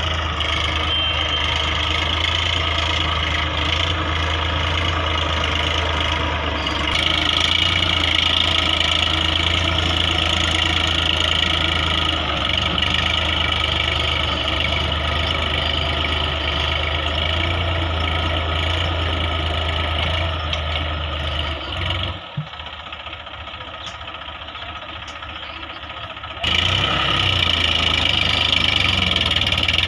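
Tractor diesel engine running steadily. It gets louder about seven seconds in, then drops away abruptly for about four seconds in the last third before coming back.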